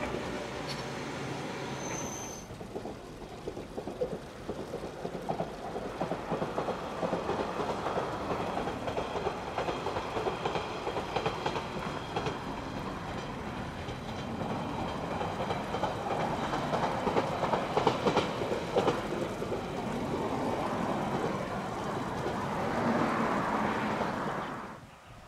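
Diesel railcar of the single-track Yamagata Railway Flower Nagai Line running on the rails, wheels clattering over the track with a steady rumble that swells and eases, then cuts off sharply near the end.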